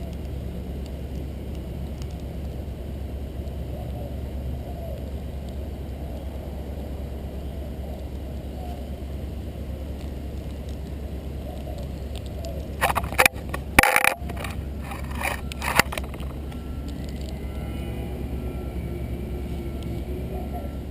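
Steady low outdoor rumble. About 13 seconds in comes a few seconds of loud crackling and rustling, like something being handled close to the microphone.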